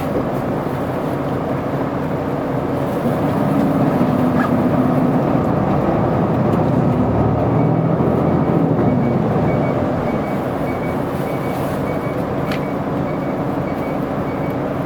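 Isuzu Erga city bus's diesel engine running, heard inside the passenger cabin. It pulls harder with rising pitch from about three seconds in, then eases off near ten seconds. A faint repeated beep runs through the second half.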